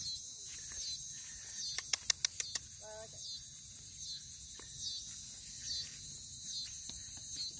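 A steady, high-pitched chorus of insects trilling in marsh grass. A quick run of sharp clicks comes about two seconds in, and a brief call about a second later.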